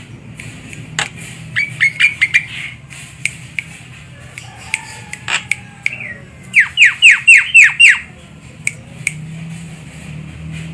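Javan myna calling: scattered sharp clicks and squawks, a quick run of short down-slurred notes about two seconds in, and a louder run of about seven down-slurred notes near the end of the second third.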